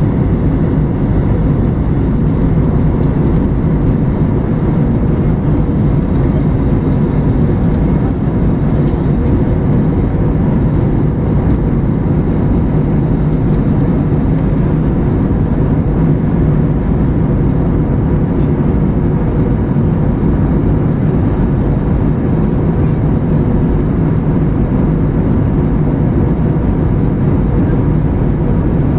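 Steady cabin noise of a jet airliner in flight: an even, deep rush of engine and airflow noise with a faint steady hum, unchanging throughout.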